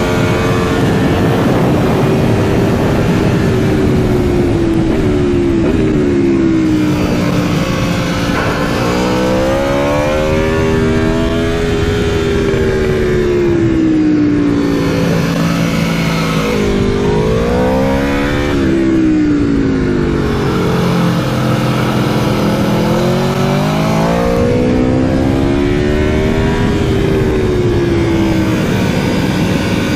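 Aprilia Tuono V4 motorcycle's V4 engine heard from onboard at full pace. Its pitch climbs under hard acceleration and drops away again several times as it goes through the gears.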